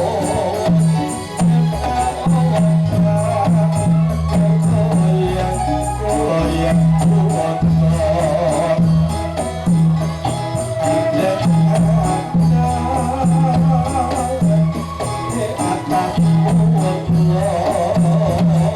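Ndolalak folk music: a melody carried over a steady, rhythmic beat of drums and jingling hand percussion like tambourines.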